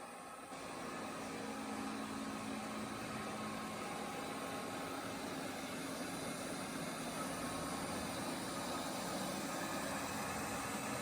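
Okami robot vacuum cleaner running: a steady motor whir and hum that grows louder about half a second in and then holds even.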